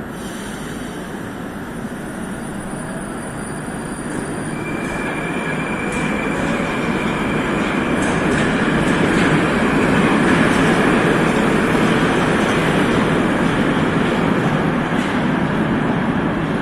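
Moscow metro train moving along the platform. Its rumble grows steadily louder over about ten seconds and then holds, with a thin high whine coming in a few seconds in.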